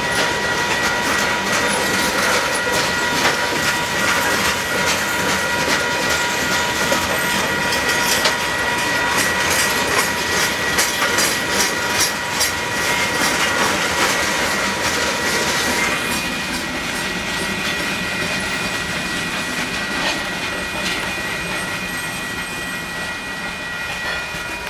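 Freight train's open-top hopper cars rolling past at a grade crossing, wheels clacking rhythmically over the rail joints under steady high ringing tones. About two-thirds of the way through, the sound turns quieter and the high tone shifts, as heard from inside a vehicle.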